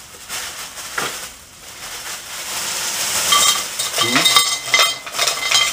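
Stones clacking against one another and against a ceramic bowl and tin can as they are placed and shifted. There is one knock about a second in, then a busy run of clinks with a brief ringing from about three seconds in.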